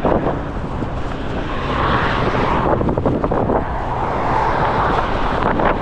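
Strong gusty wind buffeting the microphone: a steady low rumble that surges into a louder rushing whoosh about two seconds in and again a little after four seconds.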